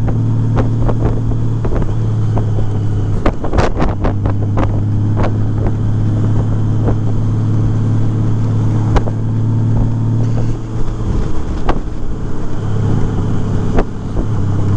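Honda Gold Wing's flat-six engine heard through Shark Road aftermarket mufflers, cruising steadily at about 2,000–2,600 rpm with a low, grumbly exhaust note. The throttle eases briefly about eleven seconds in, and wind buffets the microphone.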